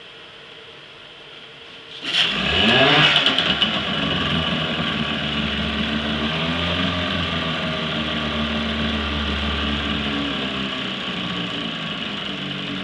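8hp Johnson outboard motor starting up about two seconds in, revving briefly with a rising pitch, then settling into a steady run.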